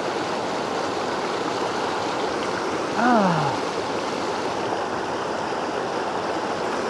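Mountain creek water rushing steadily. About three seconds in, a short wordless exclamation falls in pitch.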